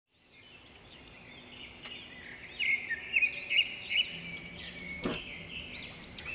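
Birds chirping, many short high calls overlapping, fading in over the first second or two.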